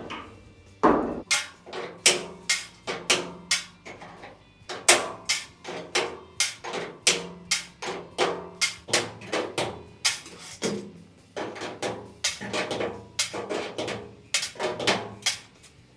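Hammer striking sheet metal on a truck's box-side wheel-arch repair: a quick, irregular run of sharp blows, about two to three a second, each ringing briefly.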